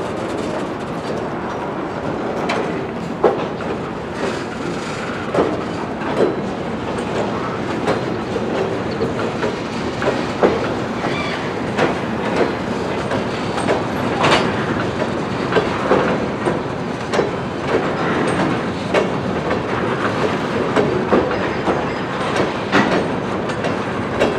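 Freight cars rolling slowly through a rail yard, their wheels knocking over rail joints at irregular intervals over a steady rumble.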